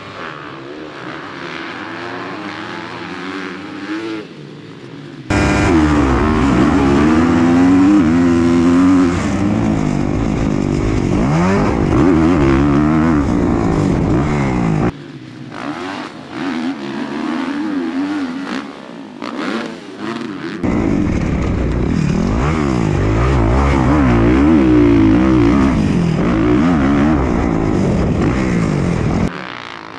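Dirt bike engines racing, revving hard and shifting, their pitch rising and falling over and over. Loudness jumps suddenly several times: the loudest stretches come from about five seconds in and again from about twenty seconds in.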